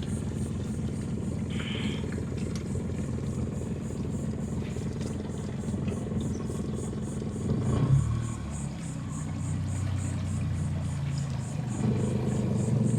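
Boat engine running steadily at low, no-wake speed. A little past halfway the sound briefly swells, then settles to a quieter, slightly different note, and grows louder again near the end.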